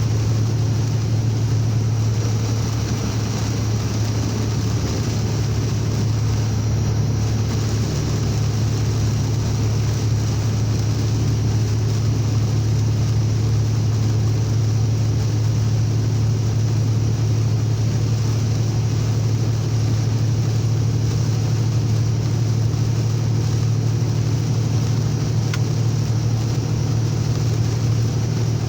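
Truck engine droning steadily at cruising speed, heard inside the cab, under an even hiss of heavy rain and wet road noise.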